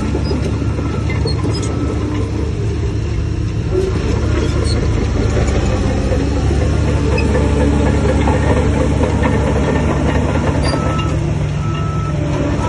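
Heavy diesel engine of earthmoving machinery running steadily under load, with a deep, even drone. A few short faint beeps sound near the end.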